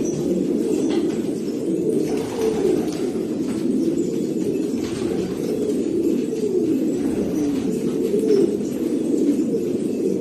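Flock of domestic pigeons cooing, many birds' coos overlapping into a steady low murmur.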